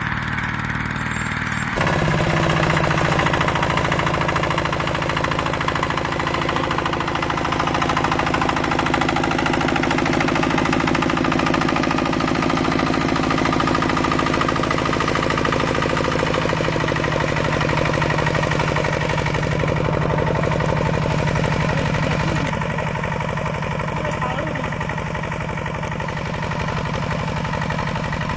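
Small engine of a walk-behind tractor running with a rapid, even chugging. A cut about two seconds in switches to another machine running in the same way.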